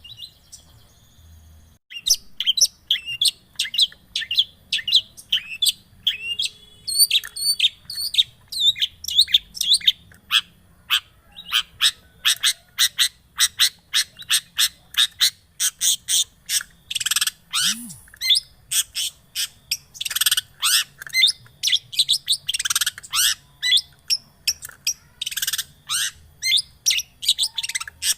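Long-tailed shrike (cendet) singing a fast, dense run of sharp high chirps mixed with harsh chattering notes, starting about two seconds in: the kind of cendet lure recording used to start a quiet bird singing.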